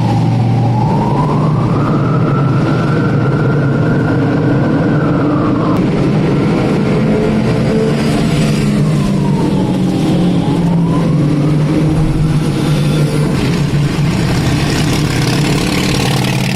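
Vehicle engine and road noise on the move, steady and loud, with a single whistling tone that dips and climbs again twice.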